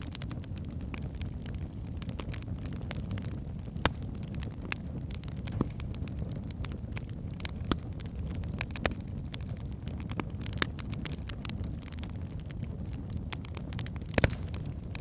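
Log fire in a fireplace burning with a steady low roar, crackling throughout with sharp pops, the loudest about 4, 8, 9 and 14 seconds in.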